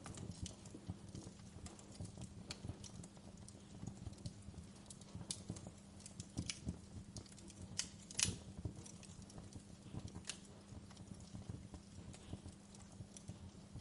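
Fire crackling, with irregular small snaps and pops and one louder pop a little past the middle.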